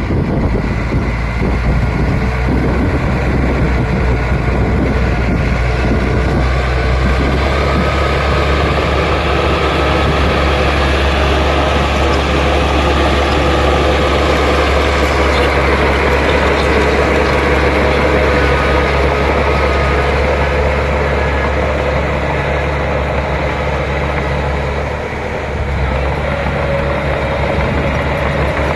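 Bulldozer's diesel engine running steadily, its low note shifting about seven seconds in and dipping briefly near the end.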